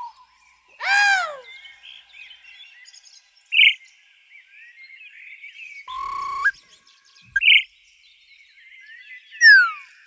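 A series of bird calls over a faint background of chirping birds. There is a loud arching call about a second in, short sharp chirps, a held whistled note that rises at its end, and a loud falling whistle near the end.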